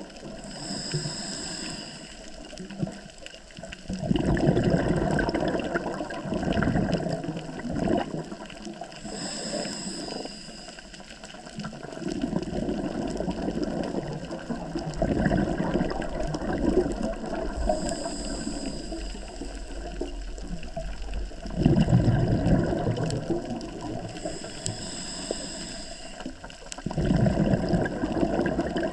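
A scuba diver breathing through a regulator underwater, about four breaths: each a short high hiss as the diver inhales, followed by a louder rush of exhaled bubbles gurgling past.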